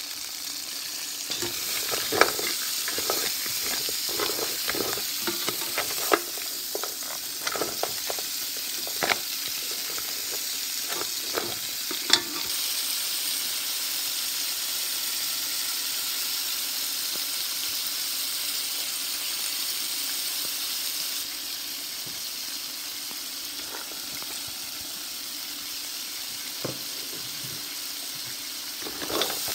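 Crab legs sizzling as they fry in a pan. A run of clicks and knocks from stirring comes over the first dozen seconds, then the sizzle goes on steadily.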